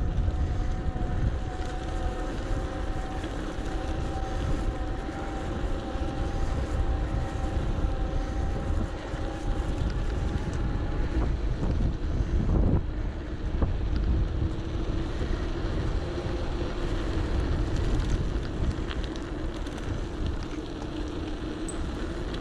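Wind buffeting the microphone while riding an electric bike, with the bike's motor giving a steady whine over it. The whine sits higher at first and drops lower about halfway through.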